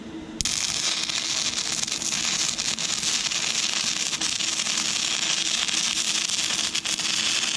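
Stick-welding arc from an inverter arc welder burning a 6011 rod on thin, rusty, painted steel: the arc strikes suddenly about half a second in, then crackles and hisses steadily as the bead is run.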